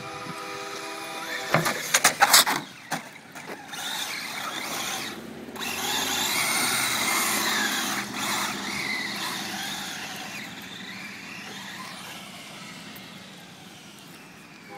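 Traxxas 1/10 rally RC car: a cluster of sharp knocks about two seconds in, then its electric motor whining up and down as it drives, fading toward the end.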